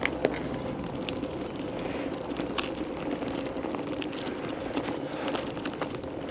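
Riding a bicycle: steady wind and road noise with scattered small clicks and rattles.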